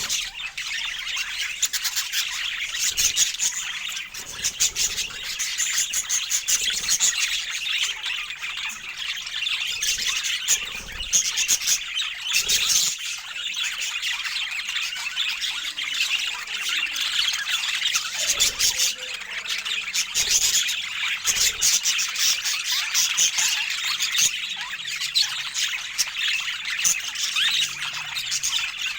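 Budgerigars chattering and squawking continuously, a dense stream of quick high chirps, warbles and clicks.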